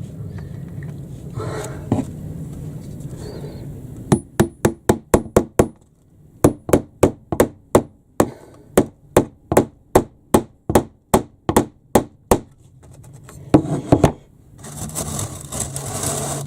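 Hammer tapping a nail into a wooden baseboard. A quick run of light taps starts about four seconds in, then after a short pause comes a steady series of strikes at about four a second for some six seconds, and a couple more taps near the end.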